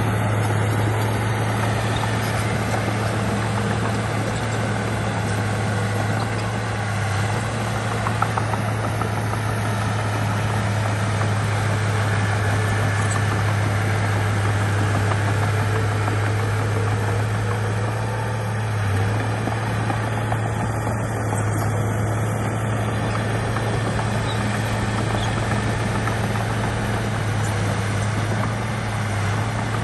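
Heavy diesel engine of earthmoving equipment running steadily, a constant low drone that does not change in pitch or loudness.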